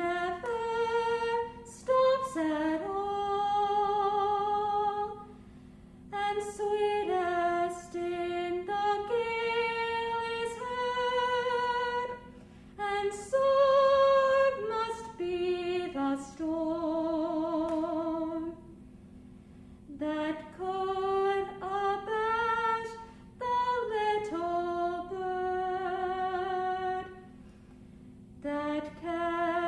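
A solo female voice singing long held notes with vibrato, in phrases separated by short pauses.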